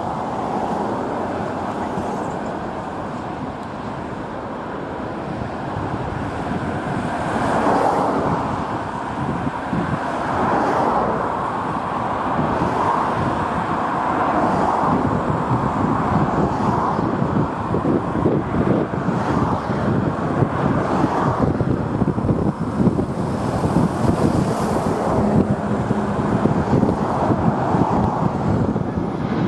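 Road traffic running past, with gusty wind buffeting the microphone. The noise grows louder and rougher about a quarter of the way in.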